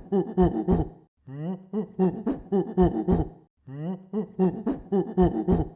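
An animal calling in rapid strings of short pulsed cries, each bout lasting about two seconds, repeated with brief pauses between bouts.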